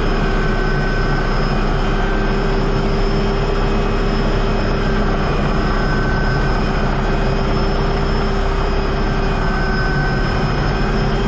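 Aircraft engine running steadily, a loud, even drone with a few fixed whining tones over it.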